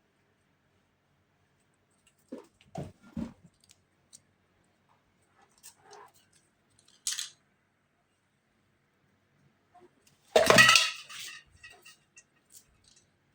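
Scattered handling sounds from spray-painting work: three quick knocks about two to three seconds in, a short hiss about seven seconds in, and a louder rustling clatter about ten and a half seconds in.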